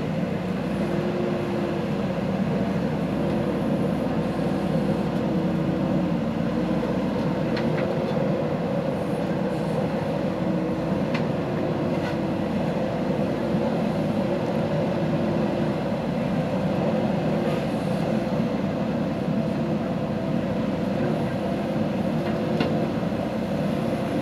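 JCB backhoe loader's diesel engine running steadily under working load, with a pitched whine that keeps cutting in and out and a few faint clanks.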